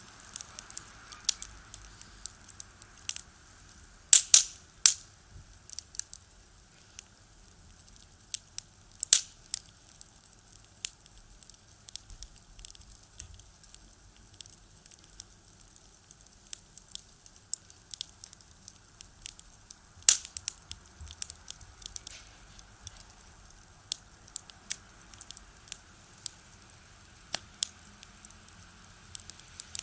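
Firewood crackling and popping in a small box stove: irregular sharp snaps, with a few louder pops now and then.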